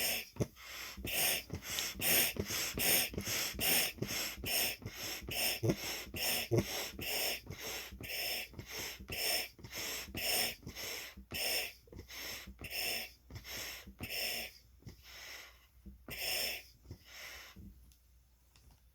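A balloon being inflated with quick, rhythmic puffs of air, about two a second, stopping near the end.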